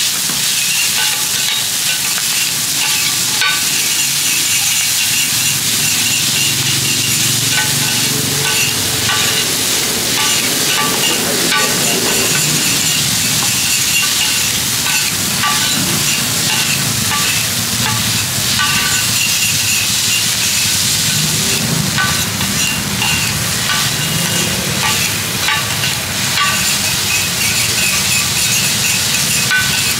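Pad thai noodles, bean sprouts and egg frying on a large flat round griddle, with a steady sizzle. A metal spatula and fork scrape and clink against the pan many times as the noodles are tossed.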